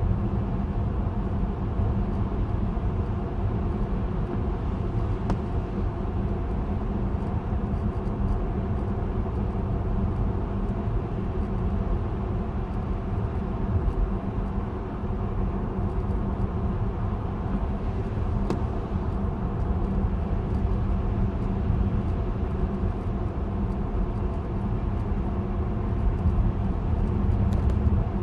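Steady low rumble of a car driving along a road in the rain, with faint scattered ticks above it.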